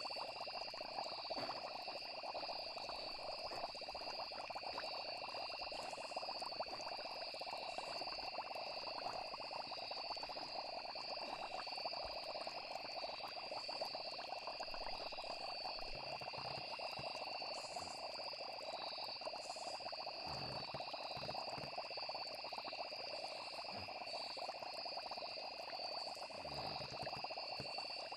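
Night chorus of frogs and crickets: steady high insect trilling over a dense, continuous frog chorus.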